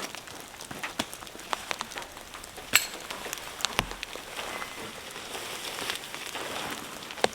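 Heavy rain falling steadily, with scattered sharp taps and knocks; the loudest come about three seconds in and just before the end.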